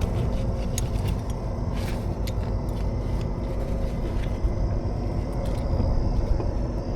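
Steady rumble of interstate traffic passing, with a faint steady hum and a few light clicks and taps in the first few seconds.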